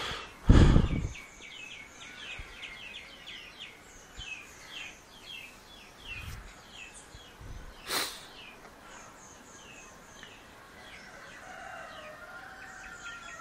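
Small birds chirping in quick series of short, high, falling calls, with scattered higher chirps later. A loud thump comes about half a second in and a sharp click about eight seconds in.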